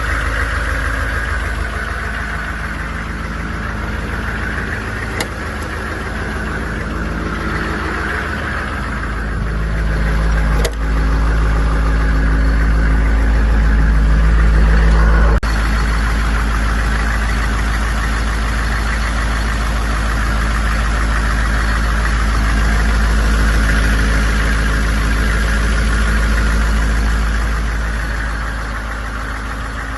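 AM General 6.5-litre V8 diesel engine of a Humvee running steadily. It grows louder for several seconds midway, with a few sharp clicks, then settles back.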